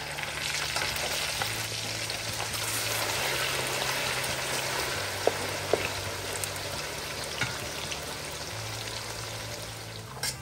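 Pork chunks and onion pieces frying in hot vegetable oil in a stainless-steel wok, a steady dense sizzle, with a few sharp clinks of a slotted spoon against the wok around the middle.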